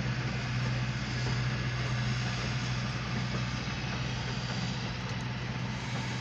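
Passenger train coaches rolling past on the track, an even rumbling noise heard from inside a car, over a steady low hum.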